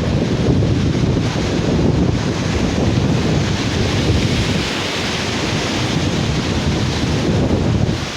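Sea surf breaking and washing onto a beach, with strong wind buffeting the microphone. The hiss of the water swells in the middle.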